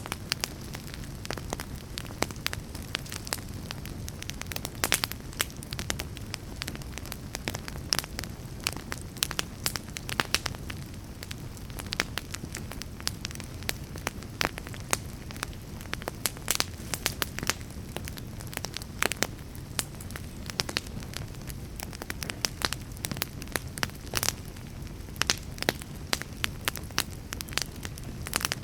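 Fire crackling, with frequent sharp irregular pops over a steady low rumble.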